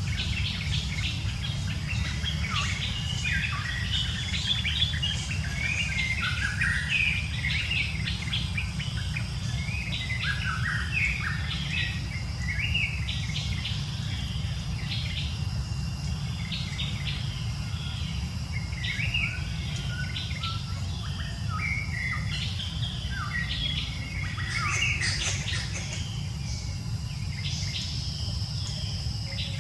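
Many birds chirping and calling at once, a busy run of short overlapping chirps and sliding notes, over a steady low rumble.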